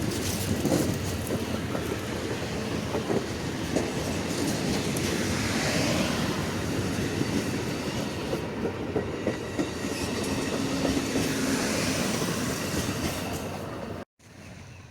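Amtrak Silver Meteor passenger train rolling through, its wheels clattering over the rail joints under steady noise, which may include heavy rain. The sound cuts off abruptly near the end.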